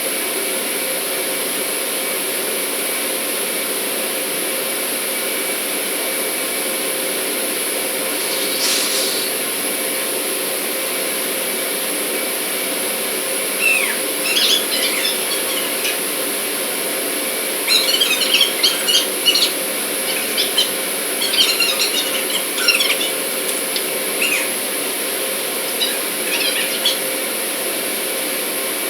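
Steady drone of running industrial machinery with a constant high whine. From about halfway, clusters of short, high squeaks and clicks sound over it.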